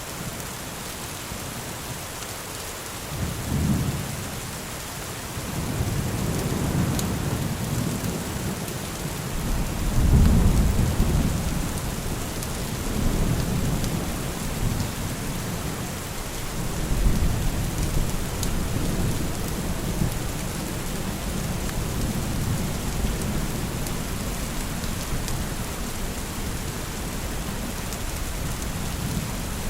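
Steady rain with rolling thunder: a short low rumble about three seconds in, then longer rumbles swelling and fading, the loudest about ten seconds in.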